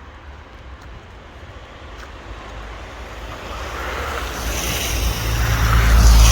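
A vehicle approaching on a wet road: the hiss of its tyres on the water builds from about halfway in to a loud peak near the end. Wind rumbles on the microphone underneath.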